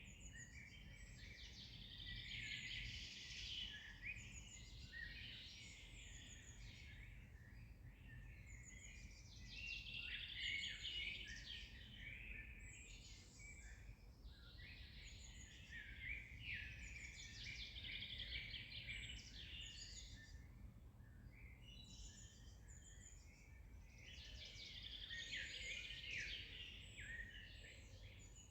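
Several songbirds singing at once in a dawn-chorus-like tangle of overlapping chirps and trills, over a faint low rumble of background noise.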